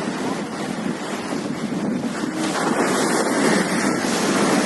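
High-tide sea waves washing against the waterfront, with wind buffeting the microphone. The rush grows fuller and a little louder about halfway through.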